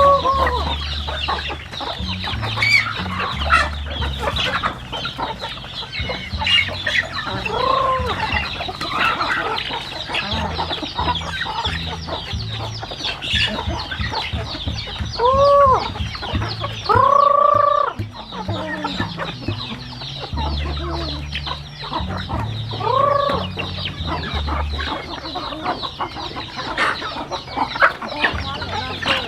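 A flock of chickens clucking and chattering throughout, with about five louder, drawn-out arched calls spread across the stretch.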